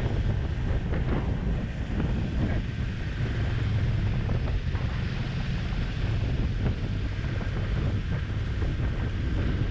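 Wind rushing over the microphone on a moving motorcycle, steady throughout, with the motorcycle engine's low hum underneath.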